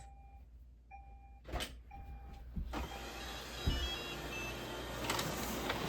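Robot vacuum beeping three short times about a second apart, then its vacuum and brush motors starting up and running steadily as it begins cleaning.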